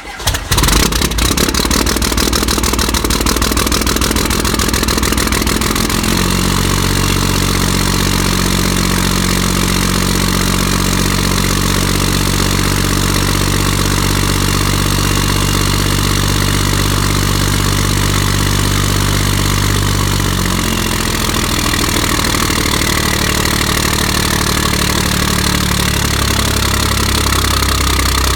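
A 1996 12-valve Cummins 5.9 L inline-six turbo diesel running just after firing on a cold start, unplugged after two weeks in 15°F cold. It runs rough for the first few seconds, settles into a steady idle about six seconds in, and its speed shifts around twenty seconds in and again near the end.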